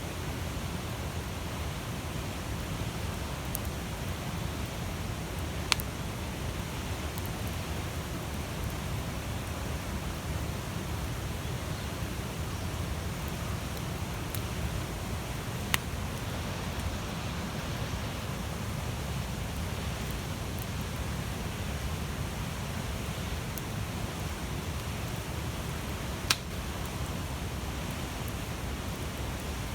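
Large wood bonfire burning with a steady rushing sound of flames, broken by occasional sharp pops and cracks from the wood, the loudest three spaced about ten seconds apart.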